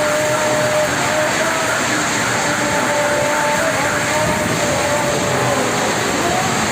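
Heavy rain pouring steadily in a storm. Over it comes a wavering whistling tone that fades in and out several times and glides near the end.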